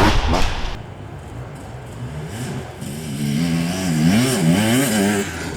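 Off-road enduro motorcycle engines. One bike is loud at the start and fades about a second in. Then another bike's engine revs up and down repeatedly as the rider works the throttle, growing louder through the middle and easing off near the end.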